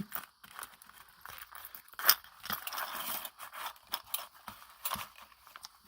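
Paper and small craft pieces being handled, with scattered light rustling, scraping and clicking while waxed thread is pulled through a punched hole. A sharper rustle comes about two seconds in.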